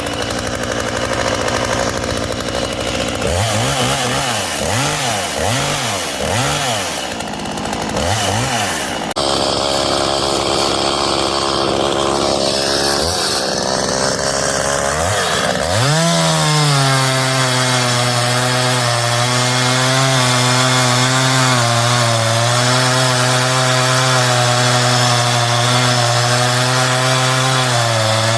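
Stihl MS192T top-handle chainsaw's small two-stroke engine running: it is blipped up and down about five times in quick succession, runs on steadily, then opens up about halfway through and holds at high revs with small dips.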